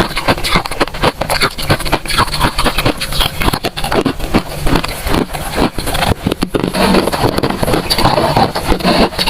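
Crisp, close-up crunching of freezer frost being chewed, a dense, irregular run of crunches several times a second.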